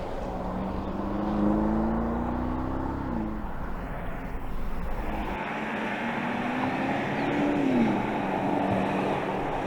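BMW X6 M50i's twin-turbo V8 pulling under acceleration. Twice, about three and eight seconds in, the engine note climbs slowly and then drops sharply as the gearbox upshifts, over steady road noise.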